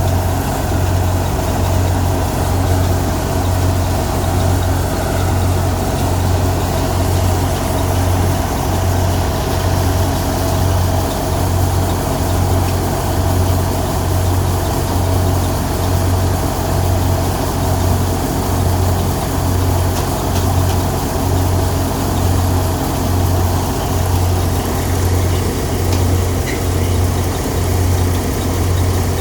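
Engine-driven threshing machine running steadily while threshing pearl millet, with a regular low throb about once a second.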